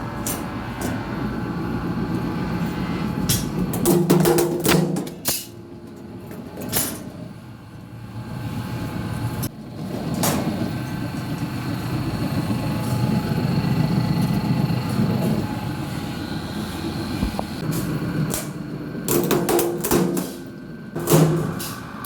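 Workshop machinery running steadily, typical of a hydraulic press cutting steel blanks, with scattered sharp metal clanks and knocks, bunched a few seconds in and again near the end.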